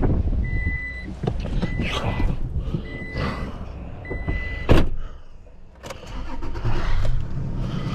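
A pickup truck's door-open warning chime sounds in short repeated spells over the engine's low running rumble. Then a door slams shut about five seconds in and the chime stops.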